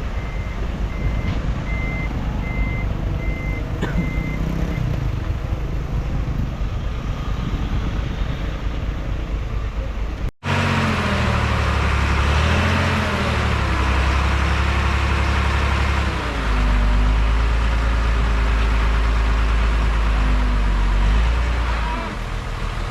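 Heavy diesel earthmoving machinery running, with a reversing alarm beeping steadily for the first few seconds. After an abrupt cut about ten seconds in, a louder, deeper diesel engine runs, its pitch rising and falling as it works.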